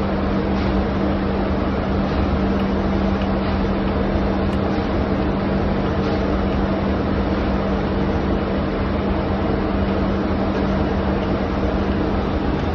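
Ship's engine room machinery running: a loud, steady drone with a constant low hum and a few faint ticks.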